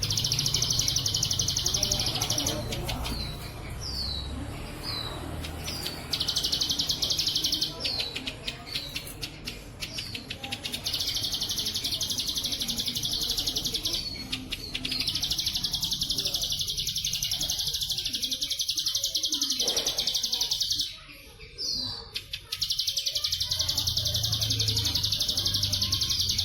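Bird-song training recording: long, dense buzzing trills of several seconds each, in the cicada-like 'bren' style of the plain prinia's (ciblek sawah's) fill, alternating with short down-slurred chirps.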